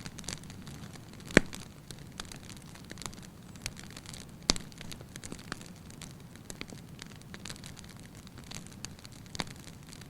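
Fire burning in a fireplace, crackling steadily over a low background rush, with frequent sharp pops. The loudest pops come about a second and a half in and again midway.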